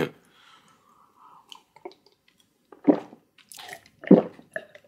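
Wet chewing and smacking of a person eating, sparse at first, with two louder short mouth sounds about three and four seconds in.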